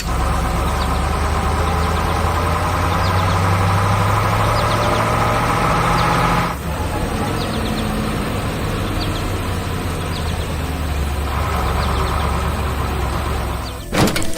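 Heavy vehicle engine running steadily, with a higher droning layer that drops out about halfway through and comes back near the end.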